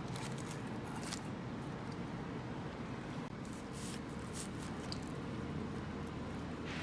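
Steady low room hum with a few faint clicks and light handling noises scattered through it.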